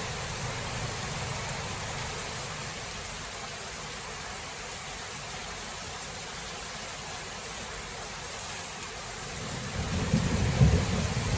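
Steady rain hissing, with thunder: a low rumble dies away in the first second, then a new roll of thunder builds from about nine seconds in.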